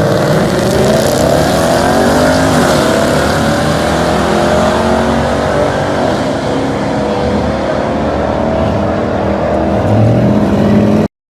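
Twin-turbo 5.3-litre LS V8 with a TH400 automatic, running hard at full throttle on a drag-strip pass. The engine pitch climbs, drops about two and a half seconds in at a gear change, then climbs again. The sound cuts off suddenly near the end.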